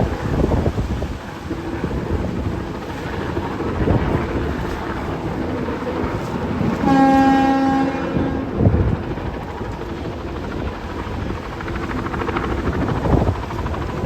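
Rough, gusty rumble of wind and engine noise, with a horn sounding once for about a second, about seven seconds in.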